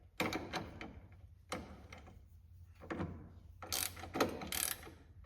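Ratchet wrench clicking in short, irregular strokes as it turns the threaded press tool that draws a steering rack bushing into the rack bore.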